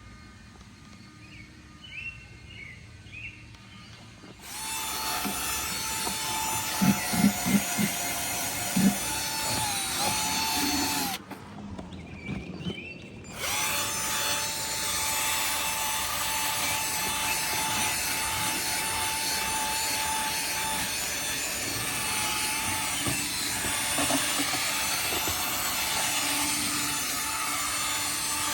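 A small electric motor in a powered cleaning tool starts about four seconds in and runs steadily with a held whine, the pitch dipping briefly as it takes load. It cuts out about eleven seconds in and starts again two seconds later.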